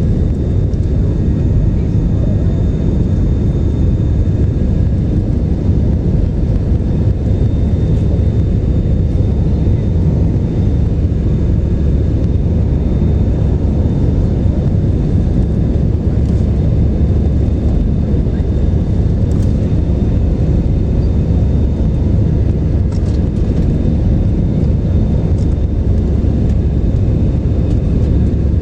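Airplane engine noise: a loud, steady low rumble with a faint high whine over it.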